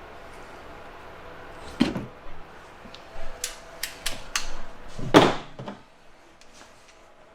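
Metal tools and shock parts being handled while the upper eyelet is tightened onto the air shock: a knock about two seconds in, a quick run of light clicks and clinks, then a heavier knock just after five seconds.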